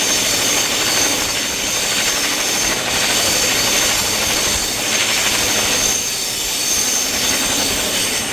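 Passenger train carriage running along the rails at speed, heard from an open window: a steady rush of wheel and air noise with a thin, high wheel squeal on the curve.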